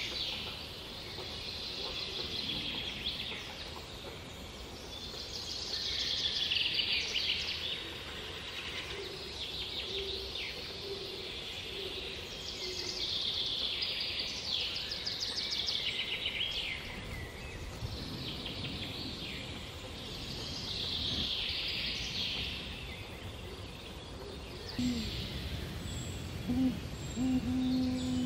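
Birds calling in woodland: short, high, rapidly trilling phrases repeated every few seconds over a steady outdoor hiss.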